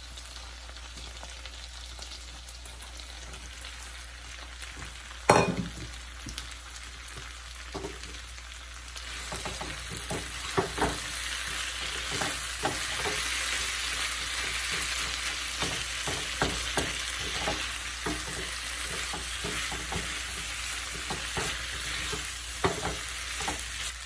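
Pounded beef and sliced onions sizzling in a frying pan as the last of the cooking water boils off, with a spatula clicking and scraping against the pan as it stirs. A single loud knock comes about five seconds in, and the sizzle grows louder from about nine seconds.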